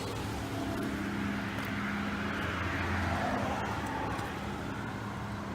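Road vehicle noise: a steady low hum, with a passing car swelling and fading about two to three seconds in.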